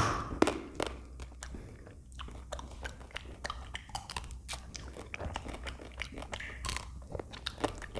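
Close-miked biting and chewing of a chocolate-coated ice cream bar, the chocolate shell crunching in many irregular sharp clicks.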